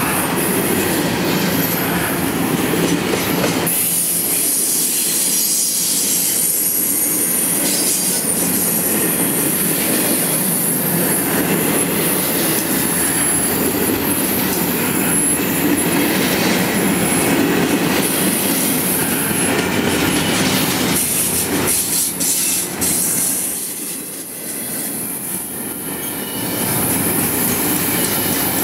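Double-stack intermodal freight train's well cars rolling past close by: a steady rumble of steel wheels on rail, with a thin, high wheel squeal over it for most of the time. The noise eases for a few seconds near the end, then comes back.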